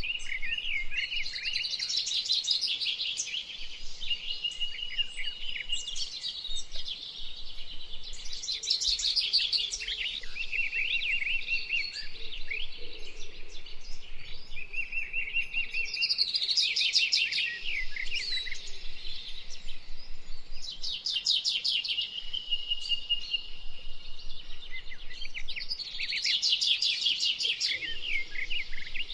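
Several songbirds singing at once, with overlapping chirps, trills and short whistled phrases that come in bursts every few seconds.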